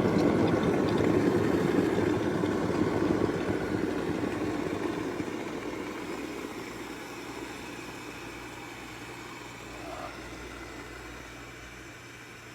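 Electric kettle's water rumbling at the boil, fading steadily as the boil dies away.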